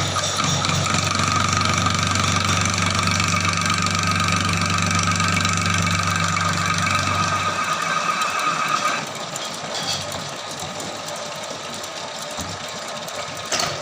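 Lathe running with a bearing-tipped centering tool in the tool post pressed against a spinning plate to true its wobbling, run-out face: a steady low hum with a higher whine over it. The hum stops about seven and a half seconds in and the whine about a second later, leaving quieter running, and a sharp click comes near the end.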